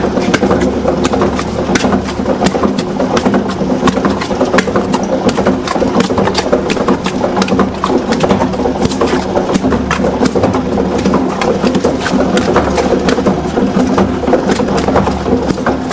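A machine running with a steady hum and a constant rapid, irregular clatter of knocks.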